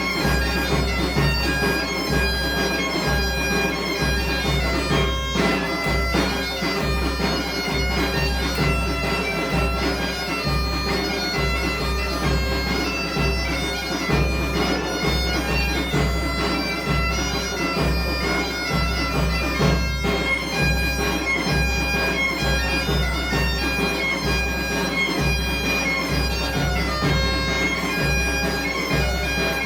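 Galician bagpipes (gaita) playing a tune over their steady drone, with a drum beating a regular rhythm underneath.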